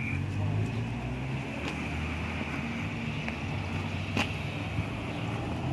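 Small-town street traffic: a motor vehicle's engine running nearby as a steady low hum, with a sharp click about four seconds in.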